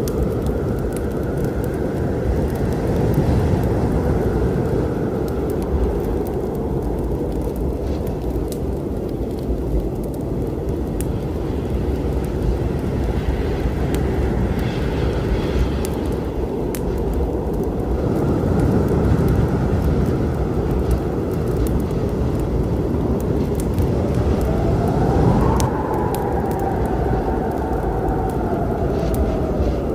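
Steady low rumble of storm wind with a wood fire crackling over it in scattered sharp pops. Near the end a whistling tone rises and falls once.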